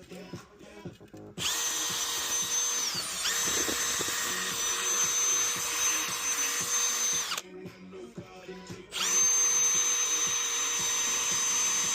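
Electric drill fitted with a wire brush, scouring loose paint from the edges of a steel tractor wheel. It runs for about six seconds, slowing briefly and picking up again partway, then stops and starts again for the last few seconds.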